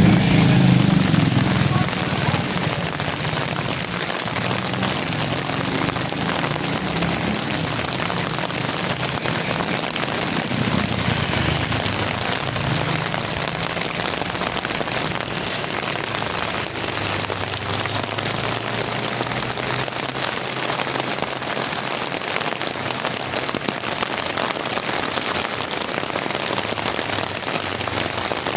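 Heavy rain falling steadily, a dense even hiss of rain on surfaces. A low rumble fades out over the first two seconds.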